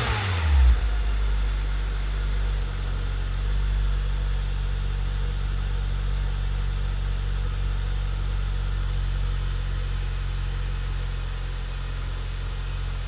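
Honda Civic 2.0 K20Z2 inline-four exhaust through a Magnaflow 14832 muffler: a rev drops back in the first second, then the engine settles into a steady idle with a low bass note.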